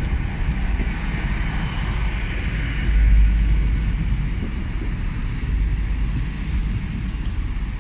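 Class 800 train pulling out of the station: a steady low rumble that swells about three seconds in, with a faint high whine that fades over the first couple of seconds.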